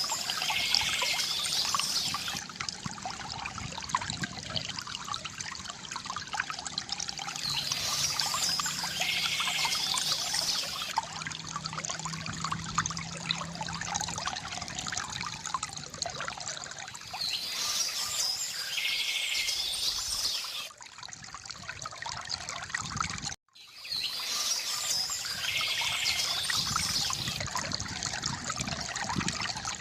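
Water trickling and splashing from a bamboo fountain, with birds chirping in short spells about every eight seconds. The sound cuts out suddenly for a moment about two-thirds of the way through.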